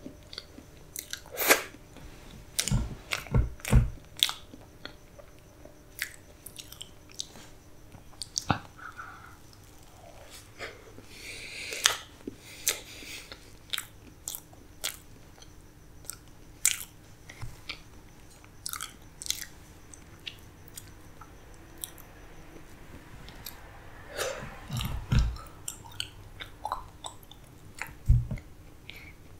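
Close-miked mouth sounds of a person chewing soft black forest cake with cream: irregular wet mouth clicks and soft munching, louder about a second in, around three to four seconds, and again near the end.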